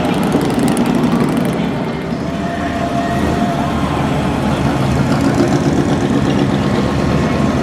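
Classic car engine idling with a steady low rumble.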